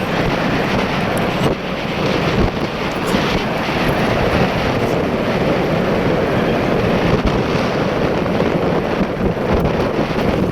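Steady drone of a motorboat under way, with wind buffeting the microphone.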